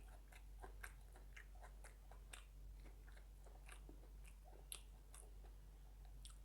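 A person quietly chewing a mouthful of rice and side dishes: faint, irregular small wet mouth clicks, a few a second, over a low steady hum.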